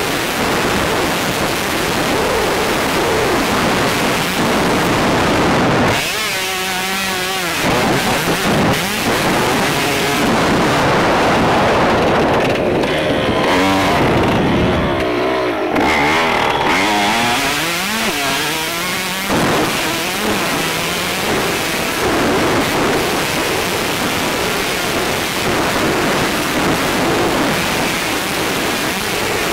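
Motocross bike engine revving up and falling back again and again as it is ridden around the track. A heavy rush of wind noise on the helmet-mounted microphone runs under it.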